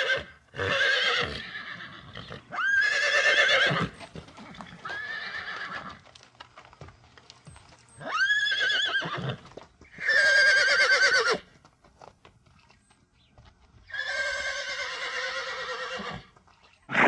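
A horse whinnying over and over: a series of about seven neighs, each one a wavering call lasting up to two seconds, with short pauses between them.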